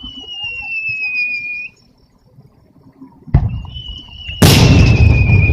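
Whistling fireworks: a high, steady whistle that sinks slightly in pitch and stops after under two seconds. Then a sharp bang and a second whistle, joined about a second later by a loud rush of noise, the loudest sound here.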